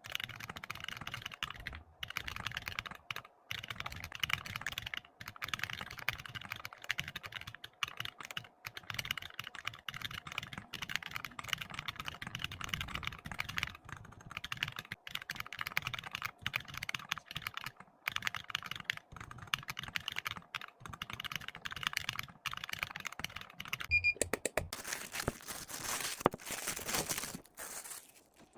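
Steady, fast typing on a computer keyboard, dense runs of key clicks broken by short pauses. Near the end there is a brief high beep and a louder rush of noise, then the typing stops suddenly.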